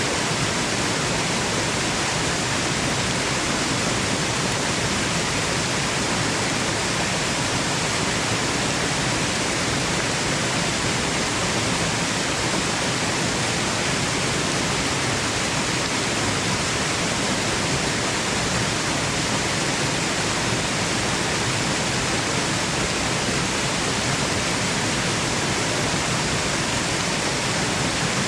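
Waterfall noise: water falling and splashing in a steady, even rush that never changes.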